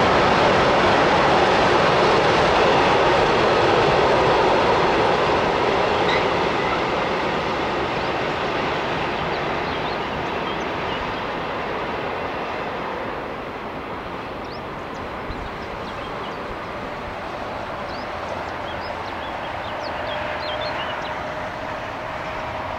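Long mixed freight train of wagons rolling by on the rails, the noise fading steadily over the first dozen seconds as the train draws away. Near the end a road vehicle's engine note comes up.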